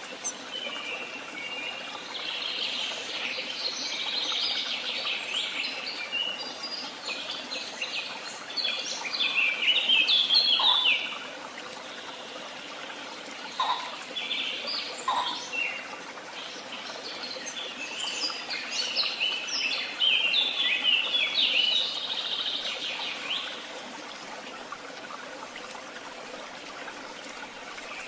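Woodland songbirds singing in several bursts of fast, high chirping phrases, loudest about ten seconds in and again around twenty seconds in, over a steady background hiss.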